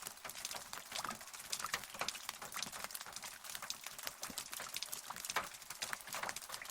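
Rain falling, with many close, irregular drop impacts ticking over a light hiss.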